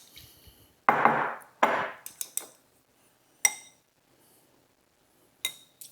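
Utensils clinking against a ceramic soup bowl, several short ringing clinks, with two longer scraping sweeps about a second in, as the noodles in the bowl are handled.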